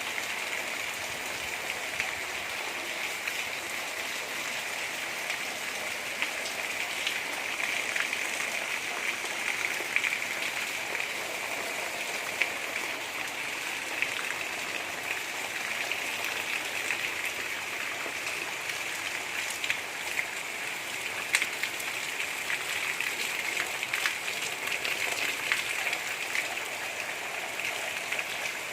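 Steady gentle rain, with the hiss of rainfall and many scattered individual drop ticks landing on surfaces.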